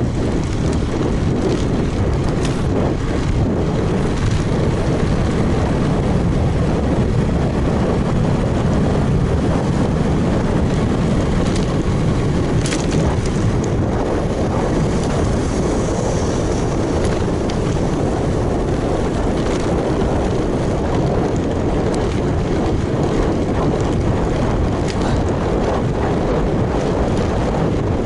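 Wind rushing over an action camera's microphone on a moving road bike: a steady, loud low rumble, with a few faint ticks from the bike.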